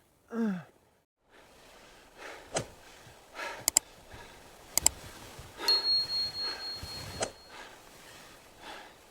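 A short falling grunt of effort, then a snow shovel scraping and crunching into heavy wind-packed snow, with several sharp clicks. A thin, steady high ring sounds for about two seconds around the middle.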